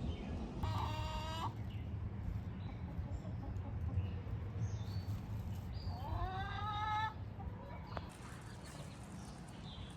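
Two drawn-out animal calls, one about half a second in and another about six seconds in that rises in pitch and then holds, over a steady low rumble.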